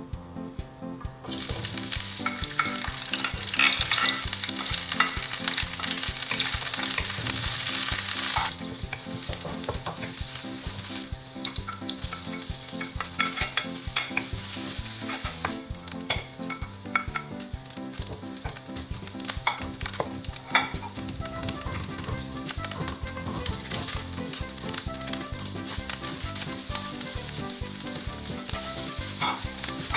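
Food sizzling in hot oil in a pan while being stirred, with scattered sharp clicks from the stirring. The sizzle starts about a second in, is loudest for the first several seconds, and drops to a quieter sizzle after about eight seconds.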